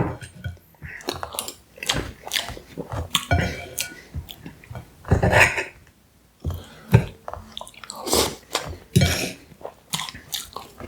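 Close-miked chewing and mouth sounds of eating pie, a run of irregular wet smacks and clicks.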